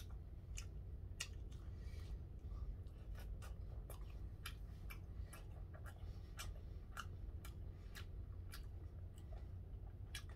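Close eating sounds: a person chewing a mouthful of gwamegi (semi-dried herring/saury), with irregular wet mouth clicks and smacks and light chopstick taps, a few per second, over a low steady hum.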